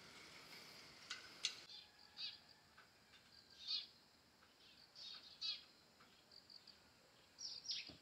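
Faint bird chirps, short high calls scattered irregularly over a quiet background, some sweeping downward in pitch.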